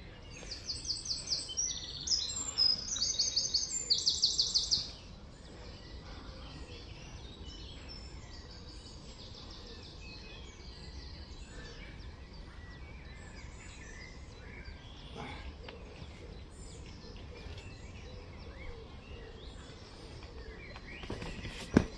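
A songbird singing close by: short phrases of rapid, repeated high notes for about the first five seconds, then fainter scattered birdsong over a low steady outdoor rumble.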